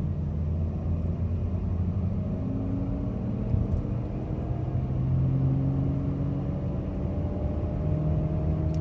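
Chevy Malibu driving, heard from inside the cabin: a steady low rumble and drone from the front end, with humming tones that slowly rise in pitch. The owner suspects a worn wheel bearing.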